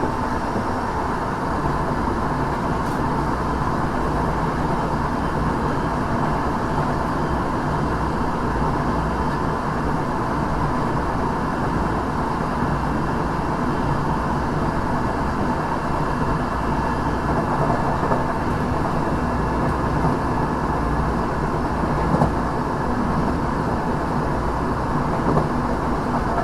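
A Tokyo Metro 6000 series electric train car running at speed, heard from inside: a steady rumble of wheels on the rails, with a few light knocks in the second half.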